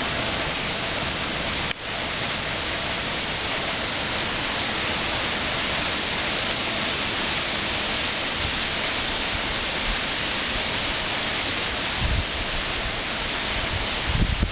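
Steady hiss of heavy hurricane rain and wind. Wind gusts buffet the microphone with low rumbles about twelve seconds in and again near the end.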